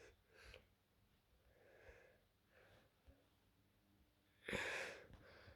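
Near silence, broken by a few faint breaths and one short, louder breath about four and a half seconds in.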